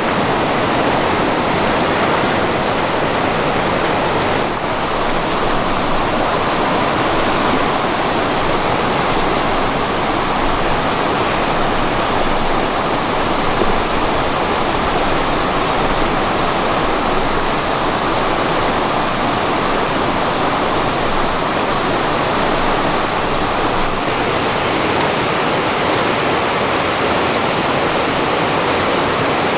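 Rushing water of a mountain stream, a steady, unbroken loud wash.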